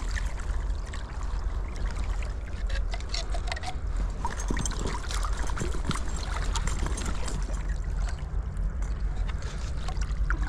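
Water trickling and splashing as a homemade seine net is lifted and handled in a flowing river, with many small irregular splashes and drips over the steady rush of the current.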